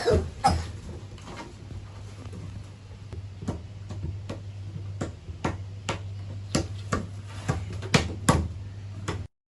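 A series of sharp taps and knocks, a loud cluster at the start and then about two a second, over a low steady hum; the sound stops abruptly near the end.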